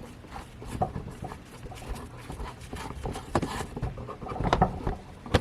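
Hand handling noise: scattered light clicks, taps and rustling as equipment is moved and set in place.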